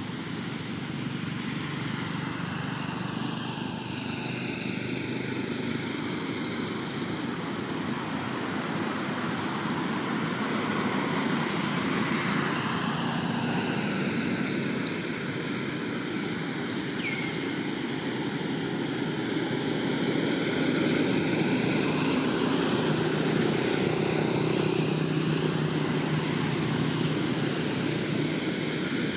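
Steady engine drone that swells and eases slowly.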